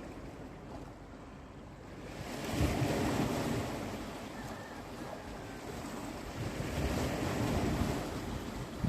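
Sea waves washing onto the shore, with two big surges, one about two and a half seconds in and another around seven seconds in. Wind buffets the microphone.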